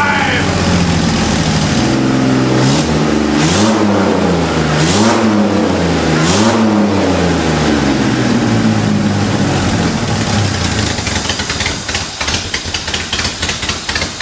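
1994 Ford Ranger engine running just after its first start in seven years, revved up and back down about three times in quick succession. Later it drops back to a rough, uneven run with rapid ticking, with the exhaust manifold missing all of its bolts.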